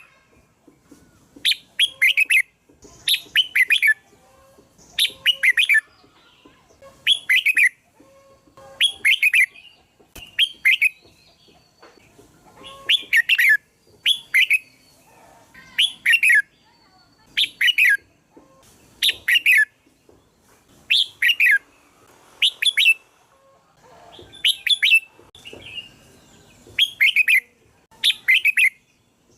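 Red-whiskered bulbul singing: short, bright phrases of a few quick chirpy notes, repeated every second or two with short pauses between.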